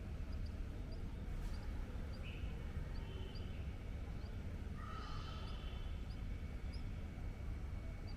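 Birds chirping: short, high peeps repeated about two or three times a second, with a couple of longer thin whistled notes around the middle, over a steady low rumble.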